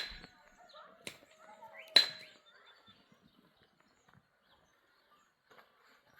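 Three sharp strikes about a second apart, each with a brief ringing, like a tool hitting something hard. Faint chirps follow.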